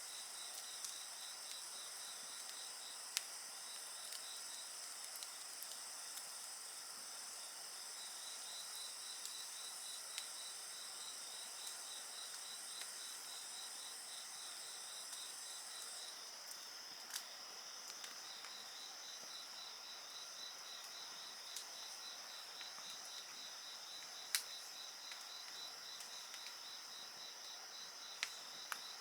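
A chorus of insects, chiefly cricket-like chirping in a rapid, even pulse, over a steady high-pitched buzz. A higher part of the chorus drops out about halfway through. A wood fire gives a few sharp crackles and pops, the loudest near the end.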